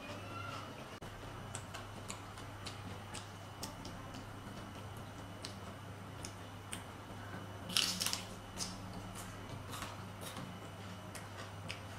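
Close-up crunching and chewing of raw vegetables: scattered crisp crackles and clicks, with one louder crunch about eight seconds in, over a steady low hum.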